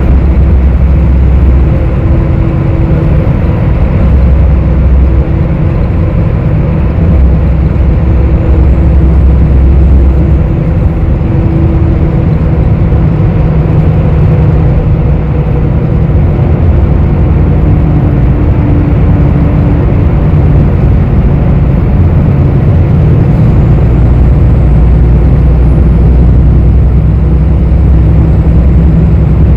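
Cabin noise inside a moving bus: a steady engine drone and road rumble. The deepest rumble swells and eases in long stretches, under a hum that drifts slightly in pitch.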